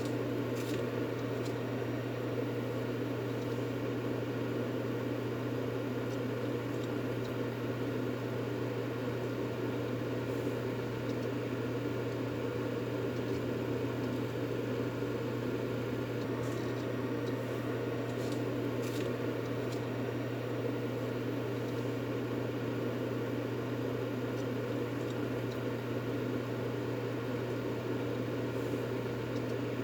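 Steady baby-soothing white noise: an even, machine-like rushing hiss over a deep steady hum, with no change in level.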